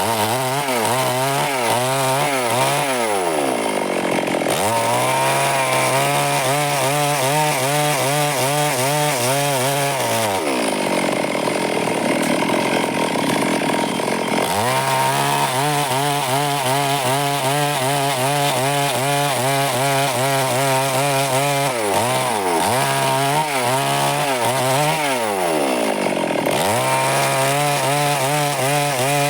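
Stihl chainsaw running hard while cutting wood. Its engine note wavers and several times falls away, then climbs back up to full revs.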